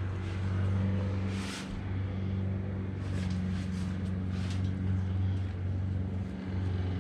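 A steady low hum, with faint short rustles and scrapes over it.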